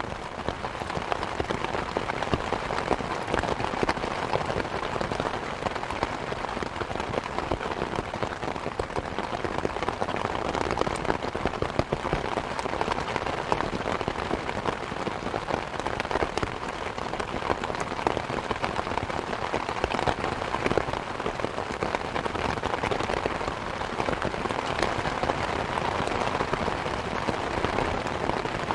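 Steady rain falling, mixed with a wood fire crackling: many small sharp pops scattered over the rain's even hiss.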